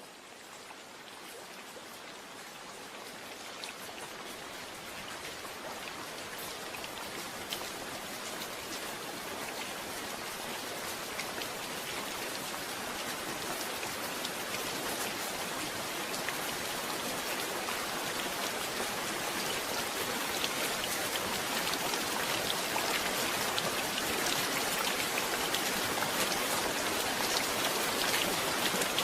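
Steady rain falling, with scattered drops ticking, growing gradually louder across the whole stretch.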